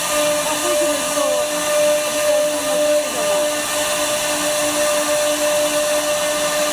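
Woodworking CNC router running steadily, its spindle giving a constant whine over a broad hiss of motor and cutting noise.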